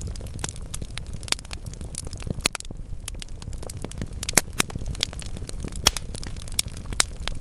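Wood fire in a fireplace, logs crackling with frequent irregular sharp pops over a steady low rumble of the flames.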